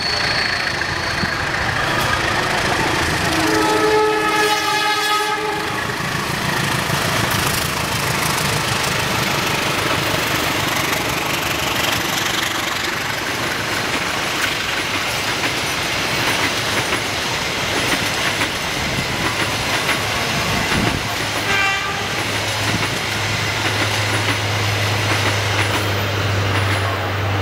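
CC 204 diesel-electric locomotive sounding a multi-note horn for about two seconds as it approaches, then a passenger train running through at speed, with steady rumble and wheel clatter on the rails. A second short horn sound comes near the end, followed by a steady low hum.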